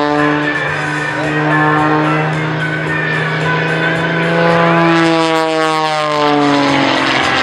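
Pitts Super Stinker aerobatic biplane's engine and propeller droning steadily, the pitch sliding up and then down about four to six seconds in as the plane manoeuvres.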